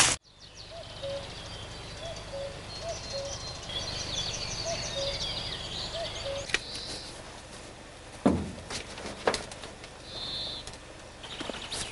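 Outdoor birdsong: a bird repeats a low two-note call, the second note lower, while higher chirping runs over it for the first several seconds. A few sharp knocks and one louder thump follow about eight to nine seconds in.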